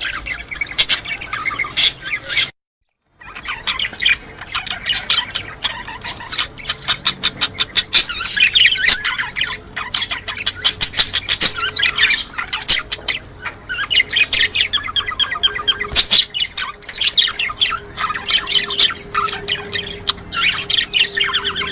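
Many small cage birds chirping and chattering at once in quick, overlapping calls, with a brief cut in the sound about two and a half seconds in. This is the kind of flock recording played to cage birds to stimulate mating.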